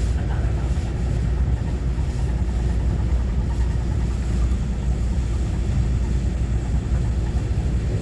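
Steady low rumble inside the passenger car of a Taiwan Railway EMU900-series electric multiple unit running between stations, wheels on rails with running noise.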